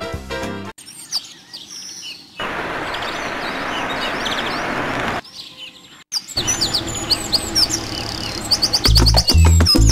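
Birds chirping in short, high calls, broken in the middle by about three seconds of steady hissing noise. Near the end, music with a heavy bass beat comes in over the chirps.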